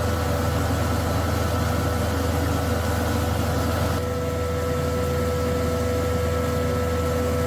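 Rice milling machine running steadily after its restoration: a constant low hum with a steady whine.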